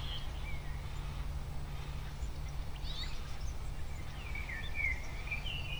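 Birds chirping faintly with short whistles and quick pitch sweeps, a few scattered notes and then a run of chirps near the end, over a steady low hum.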